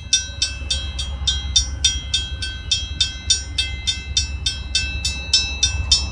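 Railroad crossing bell ringing rapidly and evenly, about four strokes a second, over the steady low rumble of the Rail Runner commuter train.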